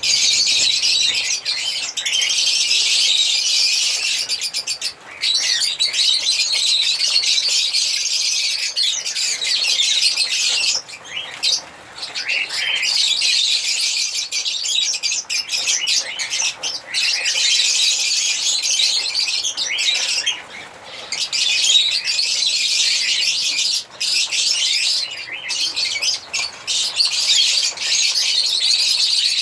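Several lovebirds chirping and chattering in a dense, high-pitched run of overlapping calls, with short lulls about 5, 11, 20 and 24 seconds in.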